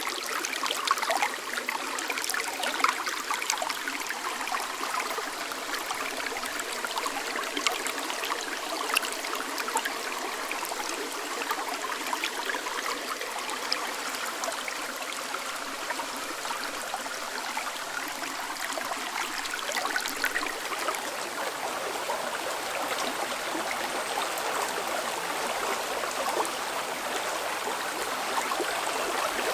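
A clear mountain river of snowmelt water babbling over stones, a steady rush dotted with small splashes and trickles.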